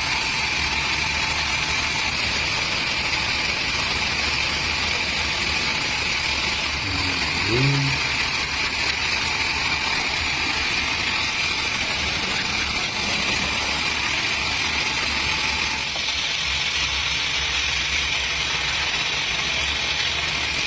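Chainsaw engine running steadily at an even speed throughout. A brief tone rises and falls about seven and a half seconds in.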